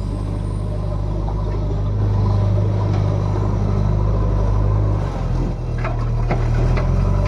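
Diesel engine of a JCB 3DX backhoe loader running steadily, picking up in level about two seconds in as it works under load. A few short metallic knocks near the end.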